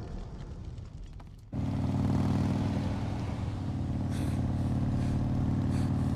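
A low noisy rumble fades for about a second and a half, then cuts abruptly to a motor vehicle engine running steadily at one even pitch.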